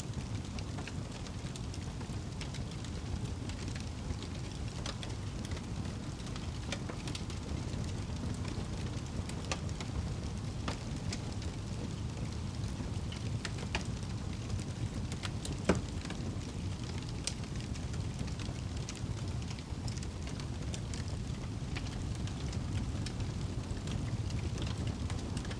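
Wood fire burning in a fireplace: a steady low rumble of flames with scattered sharp crackles and one louder pop past the middle.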